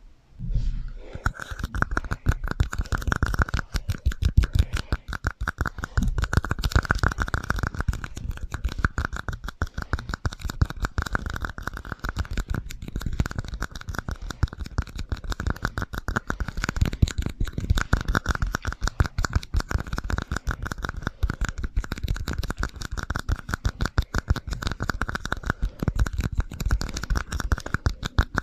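A rapid, continuous stream of close-up tapping and scratching ASMR trigger sounds with an echo effect, starting about a second in.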